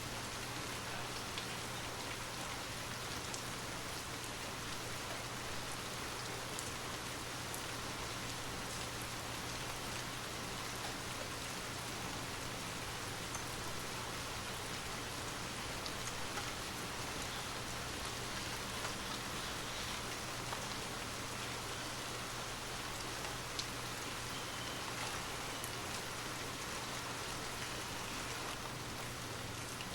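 Steady rain falling on a surface, with scattered faint drop ticks over an even hiss and a steady low hum underneath.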